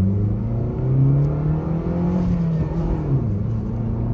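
Maruti Suzuki Swift's engine, running on CNG, accelerating hard from a standing start in a manual car. The engine pitch climbs, drops at a gear change about three seconds in, then climbs again.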